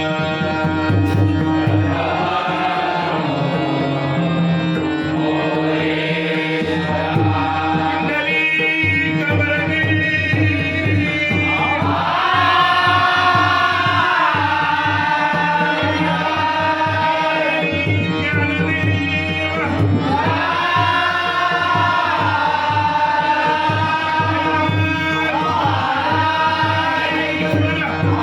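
Marathi devotional bhajan: harmonium with a singing voice, accompanied by tabla and pakhawaj drums keeping a dense rhythm.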